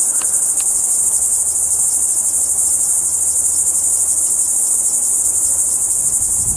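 Steady, loud high-pitched chorus of insects, crickets or similar, a dense rapid pulsing that runs on without a break.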